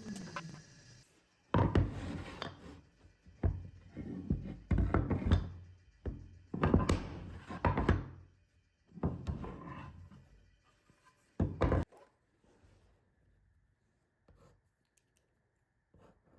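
An irregular series of heavy thunks and knocks, about eight in all, each dying away briefly, ending about twelve seconds in.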